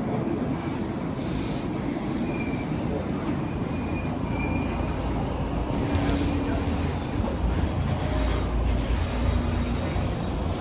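Stockholm Metro train running on the rails: a steady rumble that grows heavier about halfway through, with short faint squeals from the wheels.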